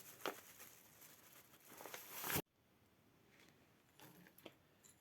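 Faint kitchen handling sounds as batter ingredients go into a mixing bowl: a few light clicks and taps, with a rustling hiss that builds and cuts off abruptly about two and a half seconds in.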